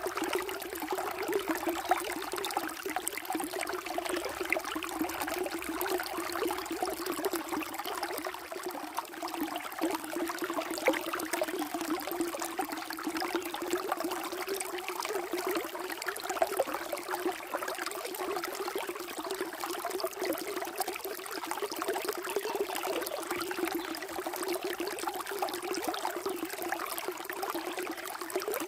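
Water flowing and trickling steadily, a continuous splashing babble with many small bright drips and splashes.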